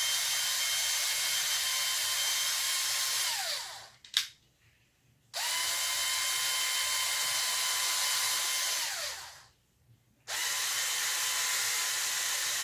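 Electric drill with a 1/2-inch bit running in three spells, each a steady whine that winds down when the trigger is let go, as it bores through two plastic bottle caps taped back to back. There is a single click about four seconds in.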